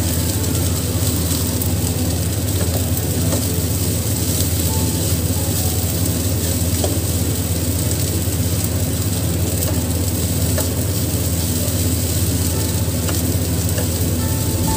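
Fried rice sizzling in a non-stick pan over a gas flame while a spatula stirs and scrapes it. There is a steady low hum underneath.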